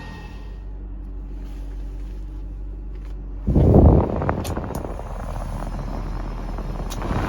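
1995 Subaru Sambar kei truck's small four-cylinder engine idling steadily. About three and a half seconds in, a sudden loud rushing noise takes over and carries on, growing louder near the end.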